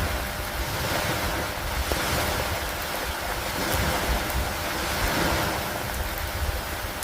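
Steady rain and wind over open water, an even wash of noise that swells and eases gently, with a constant low rumble beneath.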